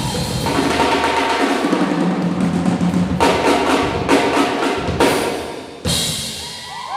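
Junior jazz big band playing closing bars with busy drums: full ensemble, then a run of sharp accented strokes, ending on a sudden loud hit about six seconds in that rings away.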